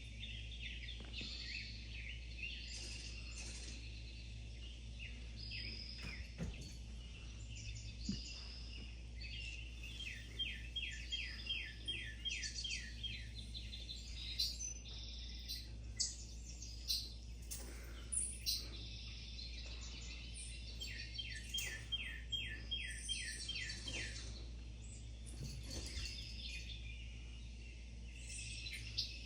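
Several small songbirds chirping and singing, with a fast trill of rapid repeated notes heard twice. A steady low hum runs underneath.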